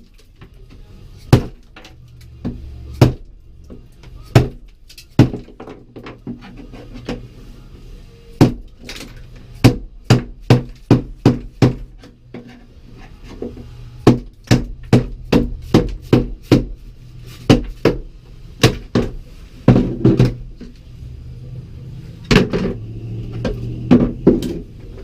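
Steel chisel knocking against frozen factory sound-deadening on a car's floor pan, a long run of sharp, irregular knocks and cracks, sometimes several in quick succession. The dry ice has made the adhesive brittle, so the deadening cracks loose in whole pieces.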